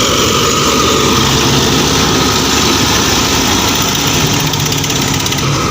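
Diesel engine of heavy farm machinery, a tractor or rice harvester, running steadily with a loud, even engine noise.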